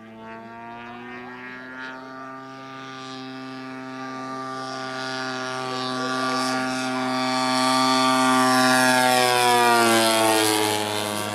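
Gasoline engine and propeller of a 35% Hangar 9 Extra 300 radio-controlled aerobatic plane, running at a steady pitch and growing louder as it approaches, then flying past with its pitch dropping about ten seconds in as it moves away.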